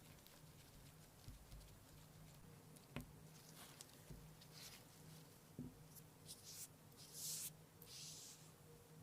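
Near silence: faint scratching and handling noises over a low steady hum, with a small click about three seconds in and a few brief swishes near the end.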